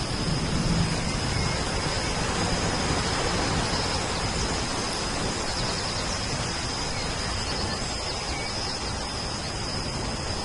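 Steady rain, an even hiss, with the low rumble of thunder dying away in the first second. A faint, steady, high-pitched tone runs above the rain.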